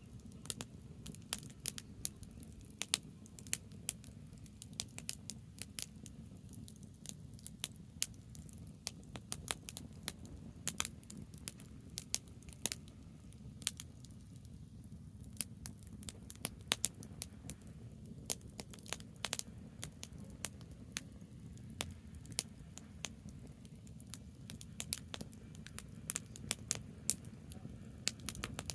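Burning branches in an open wood fire, crackling with sharp, irregular pops and snaps over a steady low rumble.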